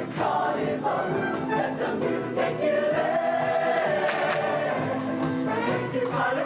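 Show choir singing with band accompaniment, with a long held note about halfway through.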